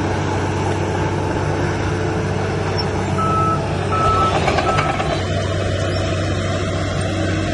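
Diesel engine of heavy construction machinery running steadily, with a reversing alarm giving three short high beeps about three seconds in.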